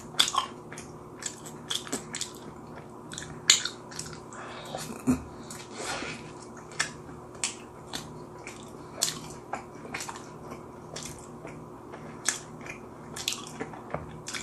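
Close-miked chewing of a mouthful of potato pizza: irregular wet mouth clicks and crackles, a few each second.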